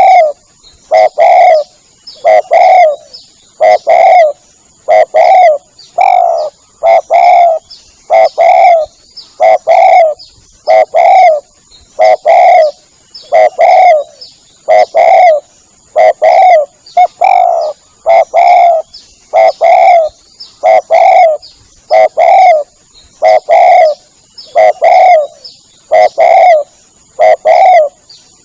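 Spotted dove (tekukur) cooing loudly in a lure-call recording, the same cooing phrase repeating about every second and a half. A thin steady high whine lies under the calls.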